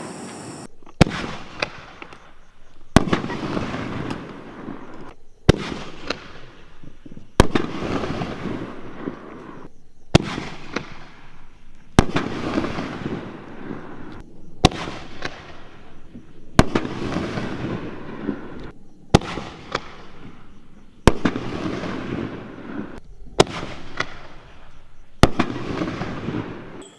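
8-inch canister firework shells going off one after another, about a dozen sharp bangs roughly every two seconds. Each bang is followed by a long rumbling crackle that fades before the next.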